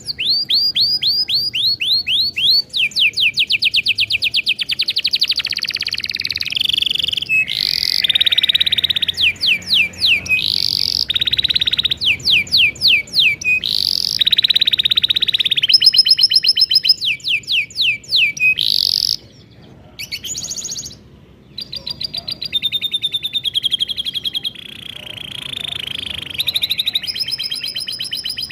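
Domestic canary singing a long, continuous song of fast trills and rolls, each made of rapidly repeated notes that switch between several pitches. Two short breaks come a little after the middle.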